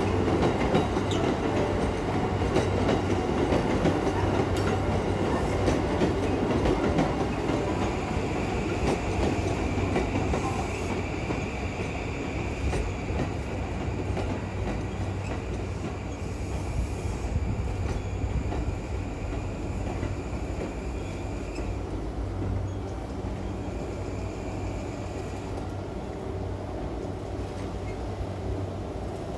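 A train running on the rails, its rumble loudest at the start and slowly fading. A steady high-pitched whine sounds over it from about eight seconds in until about twenty-two seconds.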